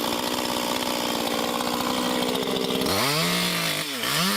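Chainsaw engine running at a steady speed, then about three seconds in its pitch swings up and down, dips briefly and climbs back to a steady higher speed as the throttle changes.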